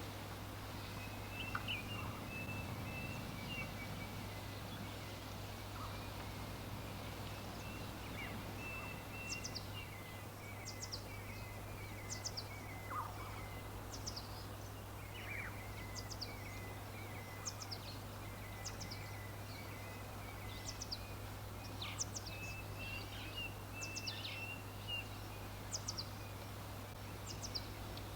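Wild birds calling over a steady background hiss and low hum: a twittering chatter throughout, and from about a third of the way in one bird repeating short, high, downward-sweeping chirps about once a second.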